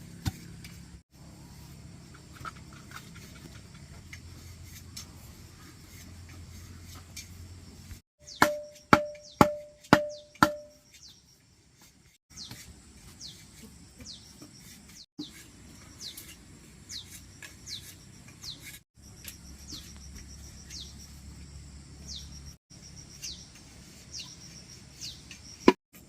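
Five quick hammer blows, each with a short metallic ring, then a bird repeating short, high, falling whistled calls, with one sharp knock near the end.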